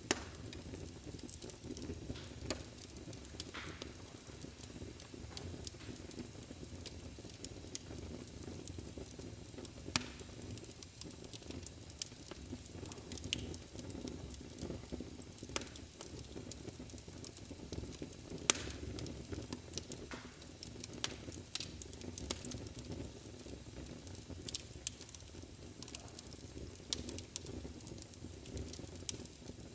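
Wood fire burning in a fireplace: a steady low rumble of the flames with frequent irregular crackles and pops, two of them sharper and louder than the rest, about ten seconds in and near the middle.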